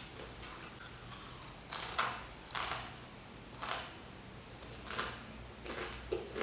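Close-up eating noises: a series of about six short, noisy mouth sounds, roughly one a second, the loudest about two seconds in.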